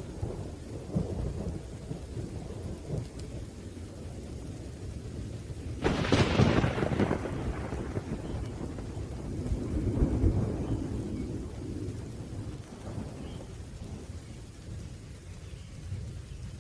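Thunderstorm: thunder rumbling over steady rain, with a sudden sharp crack of thunder about six seconds in and another rolling rumble around ten seconds.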